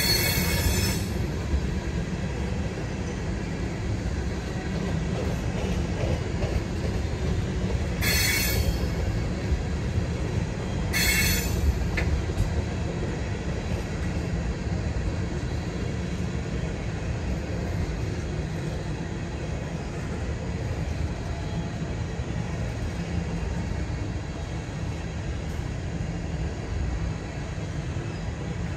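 Freight train of tank cars rolling past with a steady low rumble. Brief high-pitched wheel squeals sound three times: at the start, then about 8 and 11 seconds in.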